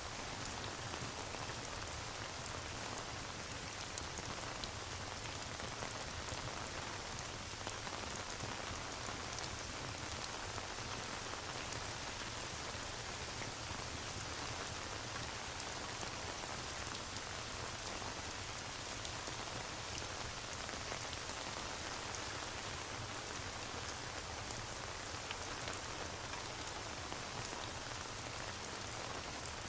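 Steady rain ambience, an even hiss with scattered faint ticks and crackles, likely from a fireplace mixed in.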